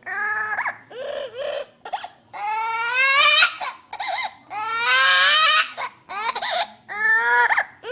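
Hill myna mimicking a person crying: a run of sobbing, wailing cries, several short ones and two longer rasping wails around the middle.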